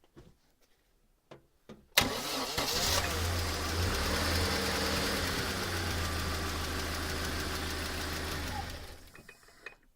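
ZMZ-406 inline-four petrol engine starting about two seconds in, catching at once and idling steadily, then switched off about nine seconds in and running down to a stop. This run-down is where the owner hears a stray knocking, ringing sound from the engine, whose cause he does not know.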